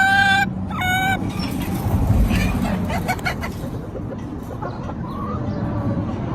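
Two short, steady honks at the start, then domestic chickens calling and clucking over a low rumble.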